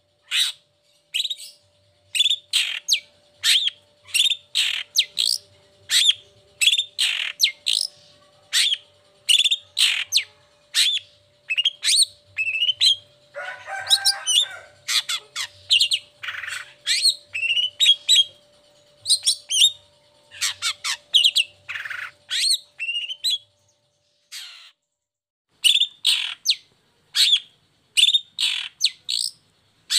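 Long-tailed shrike (cendet) singing a rapid run of short, sharp chirps, two or three a second, with a brief harsher, rougher call about halfway through and a short pause near the end.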